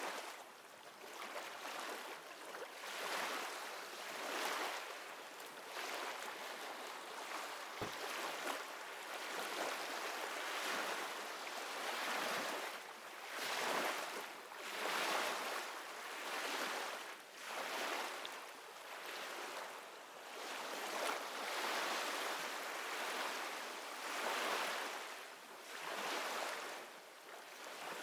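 Ocean waves washing, the water noise swelling and fading about every second and a half.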